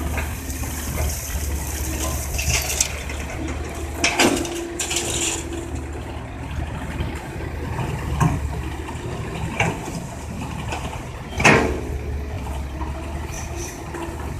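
Komatsu excavator's diesel engine running steadily while crushed rock pours and rattles, with sharp knocks from the bucket and rock; the loudest knock comes about eleven seconds in, another about four seconds in.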